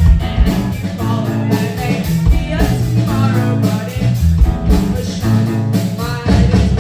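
Rock band playing live, with electric guitar, bass and drums keeping a steady beat.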